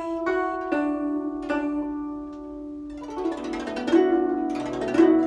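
Guzheng (Chinese zither) played solo: a few slow plucked notes that ring on, one bent downward in pitch by pressing the string, then from about three seconds in a faster, denser run of notes.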